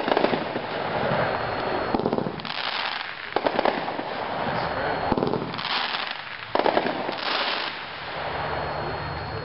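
A 25-shot consumer fireworks cake firing. Sharp reports come about every second and a half, each trailed by a long crackle that dies down a little near the end.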